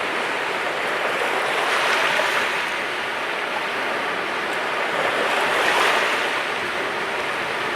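Sea waves washing in on the shore as a steady rushing surf, swelling twice as a wave breaks, about two seconds in and again about six seconds in.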